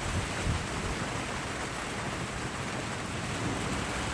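Steady rain with a low rumble of thunder that swells at the start, a few seconds after a lightning flash, and carries on under the rain.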